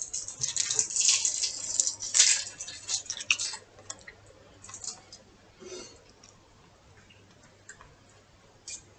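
Close mouth sounds of someone chewing a small sweet: dense wet clicking and smacking for the first three seconds or so, then only occasional faint clicks.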